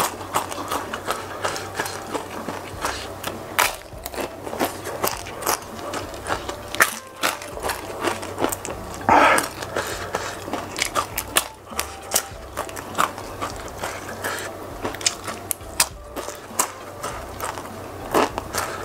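Close-miked chewing of crispy fried tempeh topped with green bird's eye chilies: a quick, irregular run of sharp crunches and crackles, with one louder crunch about nine seconds in.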